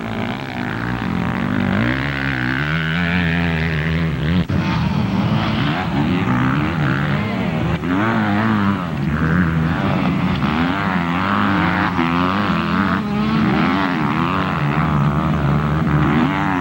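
Several motocross motorcycle engines running at once, their pitches rising and falling as the riders open and close the throttle on the track.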